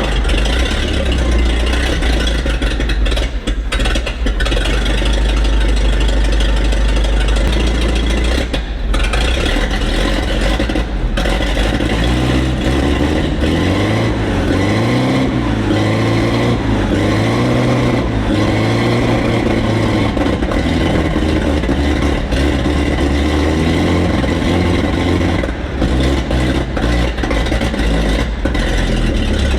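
Alvis Saracen armoured personnel carrier's Rolls-Royce B80 straight-eight petrol engine running and being revved up and down repeatedly from about twelve seconds in, over a steady low engine rumble. It is running poorly, which the crew puts down to a carburettor needing cleaning rather than the ignition points.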